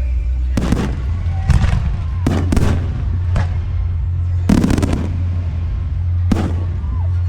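Aerial firework shells bursting: about six sharp bangs, with quick pairs about two and a half seconds in and again near five seconds, over a steady low rumble.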